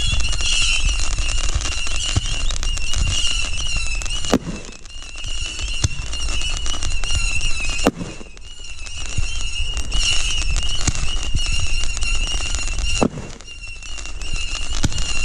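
Consumer fireworks going off: a wavering high whistle over dense crackling, broken by three sharp bangs about four, eight and thirteen seconds in, each followed by a short lull before the whistling and crackling start again.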